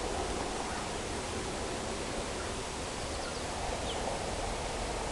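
Steady outdoor background noise, with a few faint high bird chirps about three to four seconds in.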